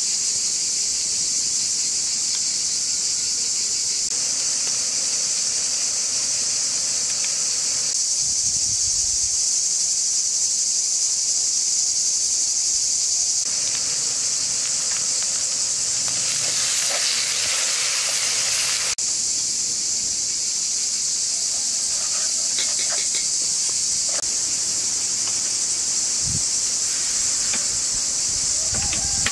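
Sliced onions frying in a wide metal pan over a wood fire: a steady high sizzle, louder and rougher for a few seconds past the middle.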